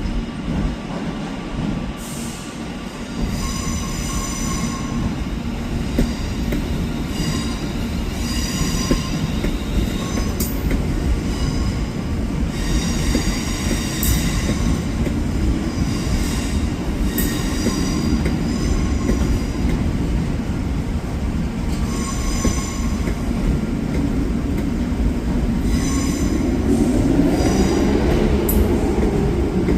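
Train moving along the track with a steady low rumble, its wheels squealing in high-pitched squeals that come and go again and again. The rumble grows louder near the end.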